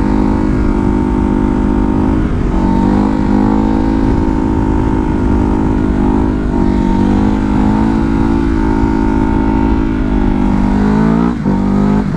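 Ducati Hypermotard's V-twin engine held at steady throttle in second gear while the bike floats a wheelie. The pitch stays fairly even with small wobbles, and the throttle is briefly chopped and reopened about a second before the end.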